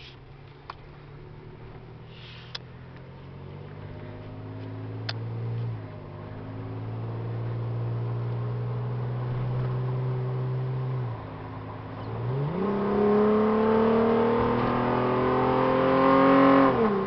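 2008 Toyota Tacoma with a URD cold air intake and JBA aftermarket exhaust accelerating through the gears, heard from inside the cab with the windows up. The engine note climbs and gets louder. It falls back at upshifts about six and eleven seconds in, then rises steeply before dropping off near the end.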